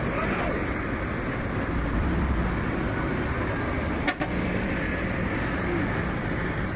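Diesel truck engine running steadily under a continuous rumble, with one short click about four seconds in.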